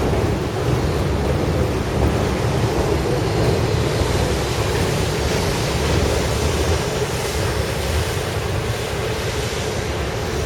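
Steady rumble of a river boat under way, its engine running with water wash and wind buffeting the microphone.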